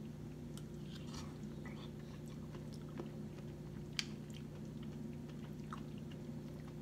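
A person chewing a mouthful of chili, with small wet mouth clicks. About four seconds in a metal spoon clicks sharply against the bowl. A steady low hum runs underneath.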